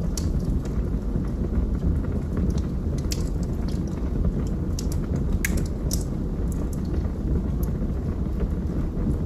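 Wood fire burning in a fireplace: a steady low rumble of the flames with irregular sharp pops and crackles from the burning wood.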